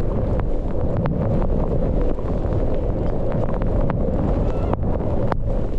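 Wind buffeting a GoPro microphone during a ski run in a blizzard, a loud steady rush, with a few brief sharp clicks.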